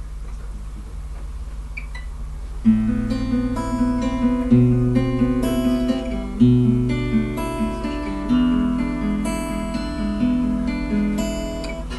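Acoustic guitar starting a song's intro about three seconds in, with chords strummed and picked and changing every second or two, after a few seconds of quiet with a low steady hum.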